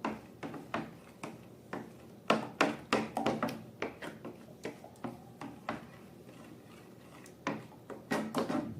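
Slime being squished and worked by hand, giving a run of irregular wet clicks and pops, busiest a couple of seconds in and again near the end.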